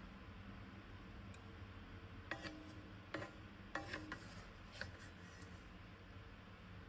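A few light clinks, like a utensil tapping or being set against a dish, some ringing briefly, over a faint steady background hum.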